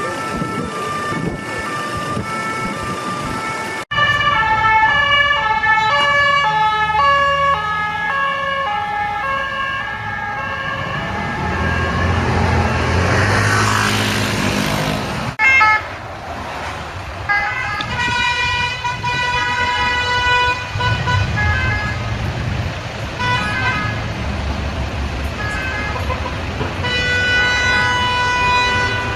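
French two-tone police sirens alternating steadily between a high and a low note, with a car's engine and road noise swelling in the middle as a vehicle passes close. Later the siren comes in short broken bursts, then holds its tones again near the end.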